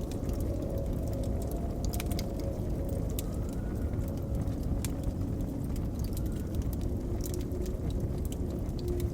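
Blizzard wind blowing steadily with a low rumble and soft whistling tones that rise and fall, over a wood fire crackling with frequent sharp pops.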